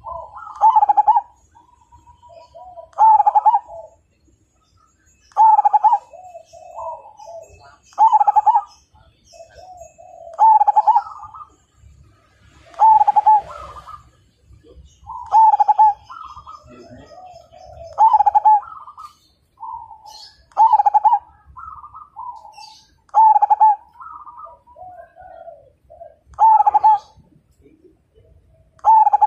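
Zebra dove (perkutut) cooing its rhythmic song: a loud, short, bubbling coo phrase repeated about every two and a half seconds, with softer coos from other doves filling the gaps.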